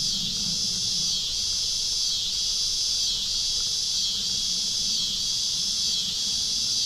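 Chorus of cicadas buzzing loudly and continuously, high-pitched, swelling and easing about once a second.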